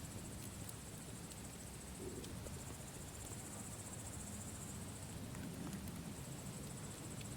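Campfire crackling with scattered small sharp pops over a low rumble, while crickets chirp in a high pulsing trill that comes and goes.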